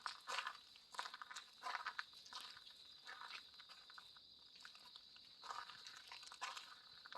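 Footsteps crunching on a forest path, about one step every two-thirds of a second, with a short pause midway. A faint steady high-pitched hum runs underneath.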